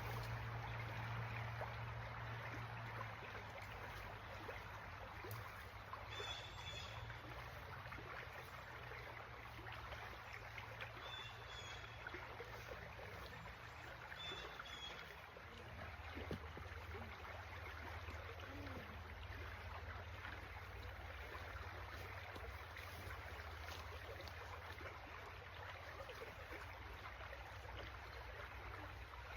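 A stream running over rapids, a steady rushing of water, with three faint high chirps about six, eleven and fourteen seconds in.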